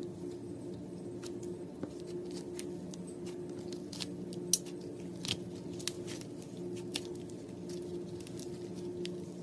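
Slime being squeezed and poked by hand: a run of small, irregular wet clicks and pops, the sharpest about four and a half seconds in, over a low steady hum.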